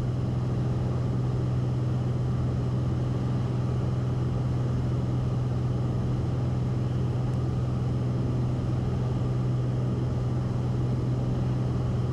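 Cessna 172RG's piston engine and constant-speed propeller droning steadily at cruise power, heard inside the cabin: an even, unchanging drone with a strong low hum.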